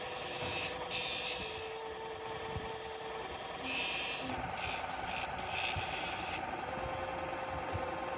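Abrasive rubbing strokes by hand on a steel sword blade, coming in uneven bursts, over soft background music with held notes.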